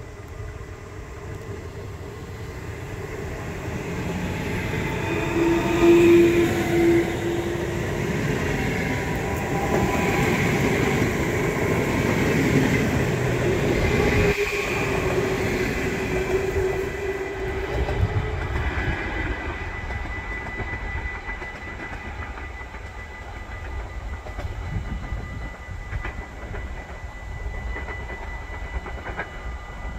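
Locomotive-hauled train rolling slowly through the station. It builds up over the first several seconds, is loudest from about six to sixteen seconds in with high squealing tones, then fades.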